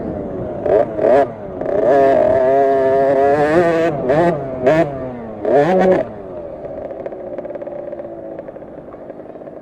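KTM SX50 50cc two-stroke minibike engine revving hard, its pitch rising and falling as the throttle opens and closes, with several sharp surges. About six seconds in it drops to a weaker, steadier note that fades away.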